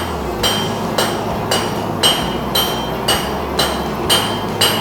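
Blacksmith's hammer striking a 5/8-inch mild steel bar on the anvil at an even pace of about two blows a second, each blow ringing, flattening the bar at the spot where it will be bent. A low steady hum runs underneath.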